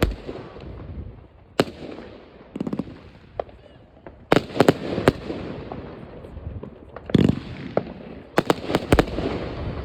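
Fireworks going off at midnight on New Year's Eve: loud, sharp bangs at irregular intervals, some single and some in quick clusters, over a continuous rumble and crackle of fireworks further away.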